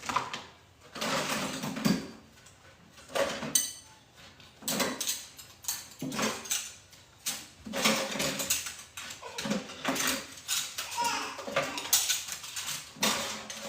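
Kitchen utensils and dishes clattering and scraping in short, irregular knocks, about one or two a second.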